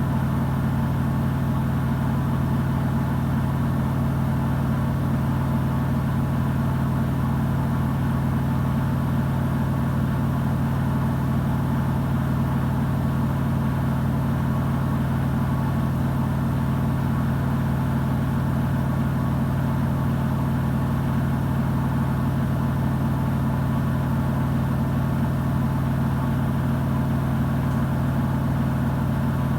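Samsung WW90J5475FX Digital Inverter washing machine spinning its drum at speed during a rinse-and-spin cycle: a loud, steady, even motor hum.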